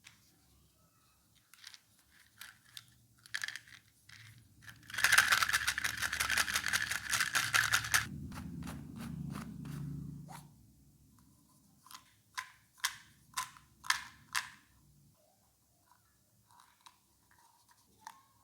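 Scattered clicks and scrapes, with about three seconds of rapid crackling in the middle, a low rumble after it, and a few more sharp clicks near the end.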